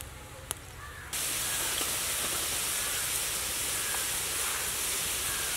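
Onions, green peas and green chilies frying in hot oil in an iron kadai: a loud, steady sizzle that starts abruptly about a second in.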